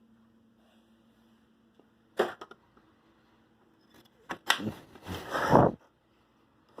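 A faint steady hum, then a sharp knock about two seconds in, a couple of clicks, and a louder scraping and rustling noise lasting about a second past the middle.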